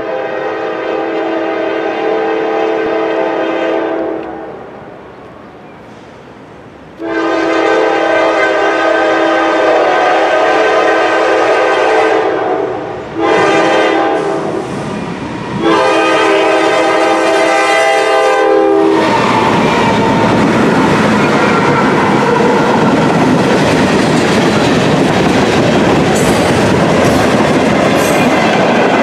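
GE C44-9W (D9-44CW) locomotive air horn sounding the grade-crossing signal: long, long, short, long. About two-thirds of the way through, the horn stops and the locomotive and empty coil steel cars roll past close by, a steady rumble with wheels clacking over the rail.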